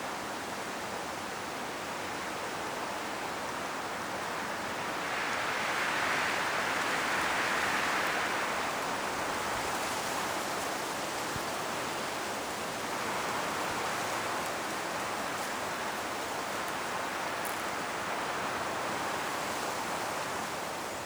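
High wind blowing through a forest, rushing through the trees and rustling the autumn leaves. It swells in gusts, loudest about five to nine seconds in, with smaller gusts around thirteen and nineteen seconds.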